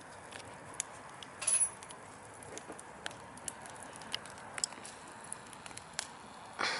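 Wood fire burning in a fireplace: a steady hiss with scattered sharp crackles and pops, including a louder pop about a second and a half in and another near the end.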